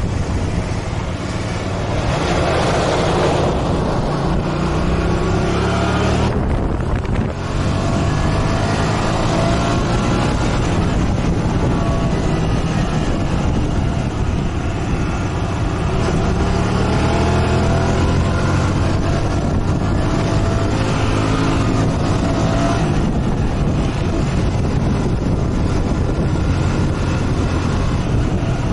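Motorcycle engine running while riding, its pitch rising and falling with changes in speed, with a short dip about seven seconds in. Wind rushes across the microphone.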